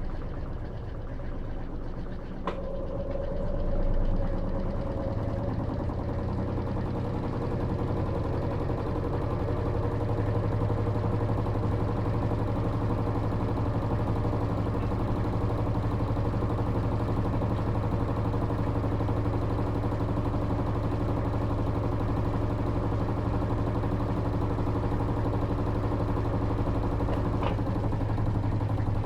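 Electrolux LT13B top-load washing machine running with a steady motor hum, which settles to an even level a few seconds in. There is a sharp click about two and a half seconds in and another near the end.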